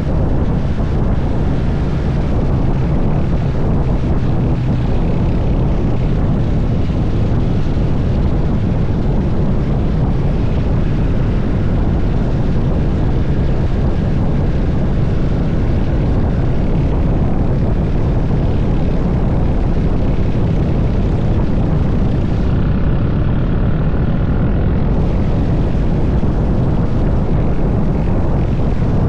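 Motorcycle running steadily at cruising speed, its engine note mixed with wind rushing over the microphone.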